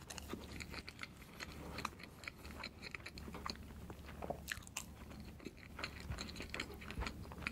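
Close-miked mukbang eating: a mouthful of soft layered cream crepe cake being bitten and chewed, heard as scattered soft mouth clicks over a low steady hum.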